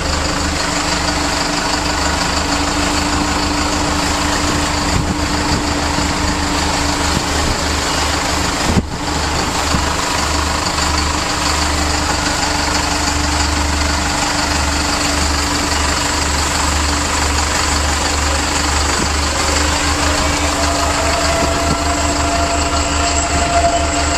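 Cummins 4BT four-cylinder diesel in a Jeep CJ-7 idling steadily with a pulsing low rumble, with a single knock about nine seconds in and a higher steady whine joining near the end.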